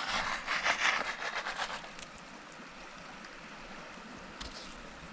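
A creek running steadily, with a louder burst of rapid crackling and splashing over the first two seconds and a short high hiss near the end.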